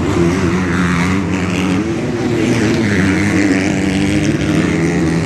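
Motocross dirt bike engines running hard on the track, their pitch rising and falling as the throttle is worked.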